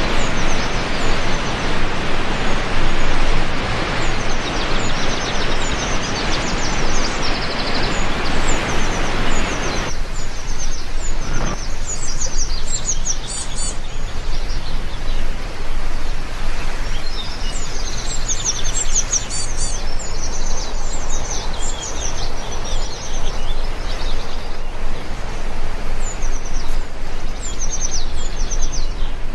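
Steady rain hiss with many small birds chirping over it. About ten seconds in the rain's hiss drops sharply to a lighter hiss, with a single short knock a moment later, while the chirping goes on.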